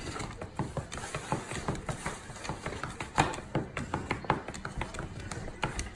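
A small white box and its packaging being opened and handled by hand: a run of irregular clicks, taps and crinkles, several a second.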